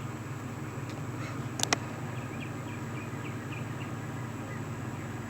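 Steady low hum of the car idling, heard inside the cabin, with a sharp double click about a second and a half in and a few faint high chirps soon after.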